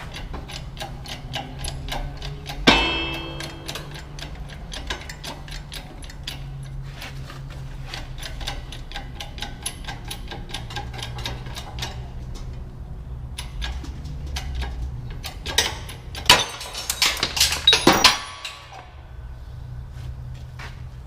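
Hand tools and metal parts being worked during a car's front wheel bearing job: a run of small clicks and taps, one ringing metal clank about three seconds in, and a burst of louder clanks near the end, over a steady low hum.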